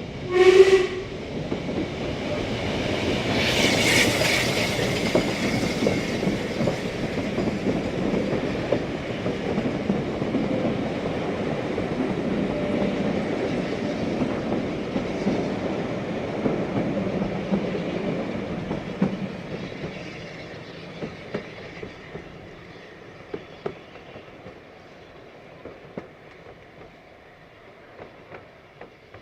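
A steam locomotive gives a short whistle blast, then its train passes with a rumble that swells and slowly fades away, leaving separate wheel clicks over the rail joints near the end.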